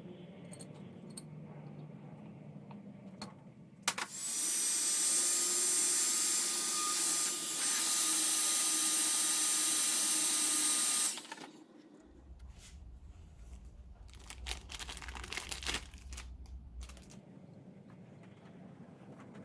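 A workshop machine runs with a loud, steady hiss and a thin high whine for about seven seconds. It starts about four seconds in and cuts off abruptly. Light clinks and knocks come before and after it.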